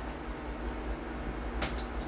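A couple of light tableware clicks, the sharper one about a second and a half in, over a steady low hum.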